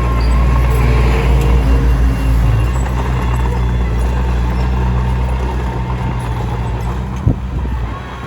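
Komatsu D21P small bulldozer's diesel engine running steadily, with one sharp knock about seven seconds in.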